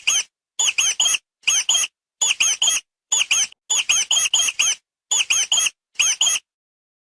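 Mouse squeaking: quick, high-pitched squeaks in runs of two to five, stopping a little over six seconds in.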